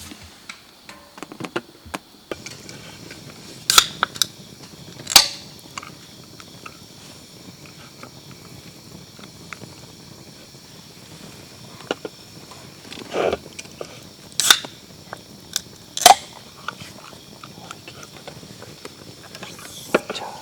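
Cutlery and dishes clinking now and then during a meal, a few sharp clinks scattered across the stretch, over a steady faint hiss.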